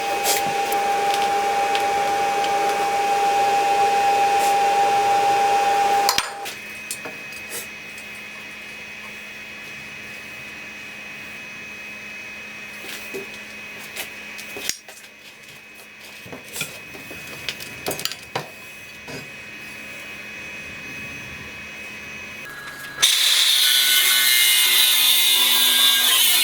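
A power tool runs with a steady whine, then shuts off abruptly about six seconds in. Quieter scattered clicks and knocks of handling follow. Near the end a loud, harsh cutting noise starts suddenly, a tool working material.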